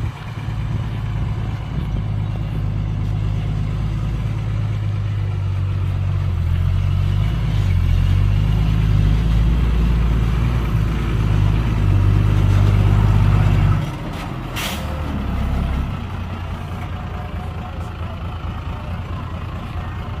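Heavy diesel dump truck engine working hard, its low rumble building for most of the stretch, then easing off abruptly to a lower steady run about two-thirds of the way in. A short hiss comes just after.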